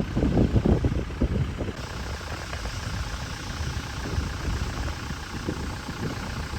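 Toyota Hilux engine idling with a steady low rumble.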